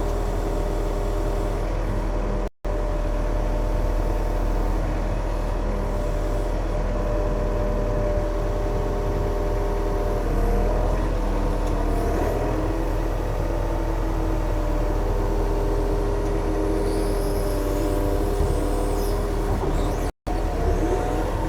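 Yanmar diesel engine running steadily at a constant speed. The sound cuts out for an instant twice.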